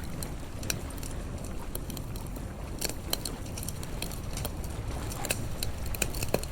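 Wood fire crackling and popping in irregular sharp snaps, over a steady low rumble of the sea's wash.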